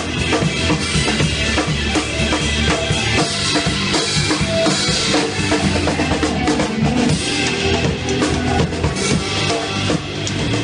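Band music driven by a drum kit, with the bass drum and snare keeping a busy, steady beat over other instruments.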